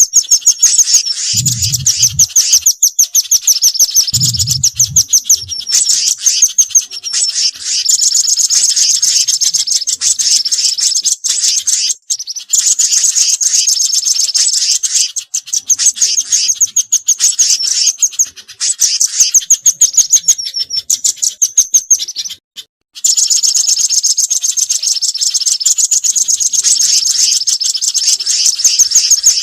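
Bird-lure recording of small songbirds: long bursts of very rapid, high chirping trills broken by short pauses, with two brief low thuds in the first few seconds.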